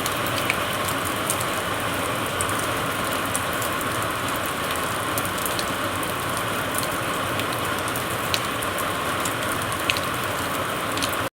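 Heavy monsoon rain pouring steadily, with scattered sharp drops tapping close by. The sound cuts off abruptly at the end.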